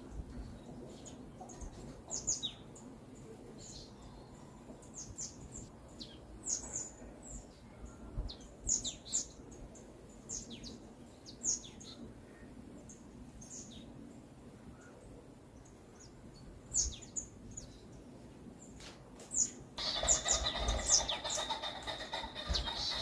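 Forest birds chirping: short, high, downward-sweeping chirps repeated every second or so over a soft background hush. About twenty seconds in, a louder, fuller bird song starts and runs on.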